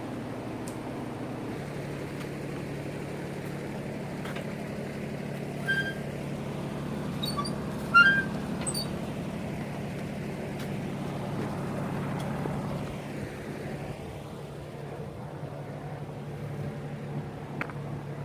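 A small vehicle's engine running steadily with an even low hum, with a few short high chirps about halfway through and a click near the end.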